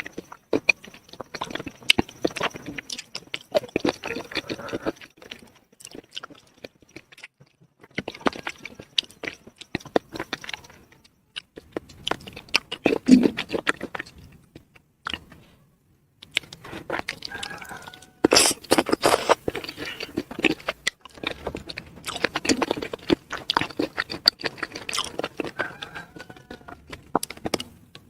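Close-miked chewing of spicy chicken feet: wet, crackly crunching and smacking in bursts of a few seconds, with short pauses between mouthfuls.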